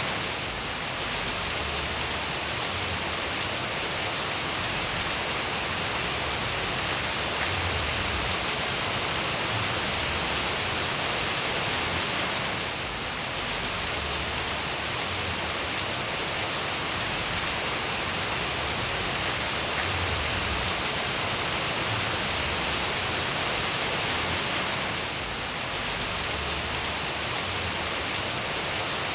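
Steady rain falling as a dense, even hiss with faint scattered drop ticks. The level dips briefly about every twelve seconds.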